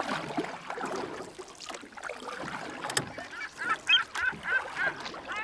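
A bird calling repeatedly: a run of short, pitched calls, about three a second, beginning a little past halfway, over a noisy background with a sharp click just before the calls start.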